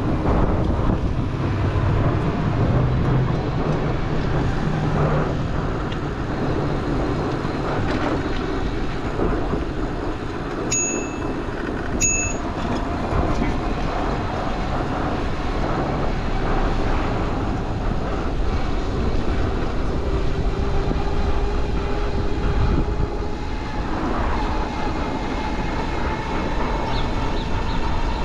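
Steady city-street traffic noise and wind rush heard from a moving bicycle, with passing vehicles and the drone of rail traffic such as a streetcar. About ten seconds in, two short high pings come a little over a second apart.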